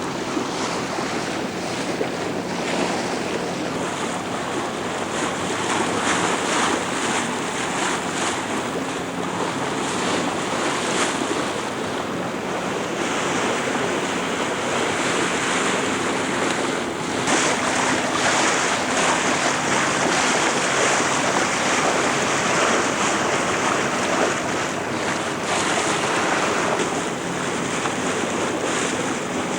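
Steady wind buffeting the camcorder microphone over the rush and splash of water along a sailboat's hull as it moves under way.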